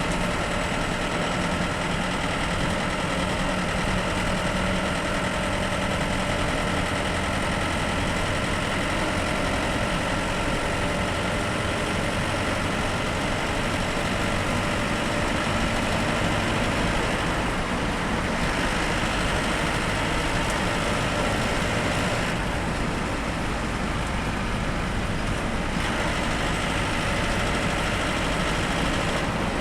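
Bus engine running with a steady drone under continuous road and cabin noise, heard from inside the moving bus.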